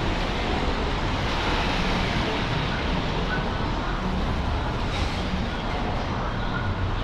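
Steady traffic noise on a wet city street: a continuous wash of passing vehicles and tyres on rain-soaked road.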